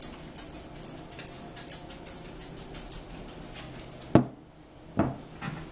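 Close-up eating sounds: wet chewing and lip smacking in a run of small quick clicks, then two sharp knocks about four and five seconds in.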